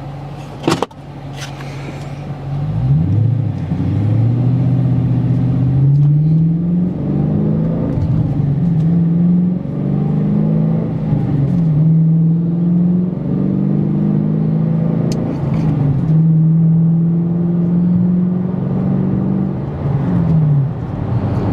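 A 2016 Dodge Challenger R/T's 5.7-litre HEMI V8 through a Magnaflow catback exhaust, heard from inside the cabin, accelerating from idle. Its pitch climbs and drops back with each upshift several times, then settles to a steady lower cruising note near the end. There is a sharp click about a second in.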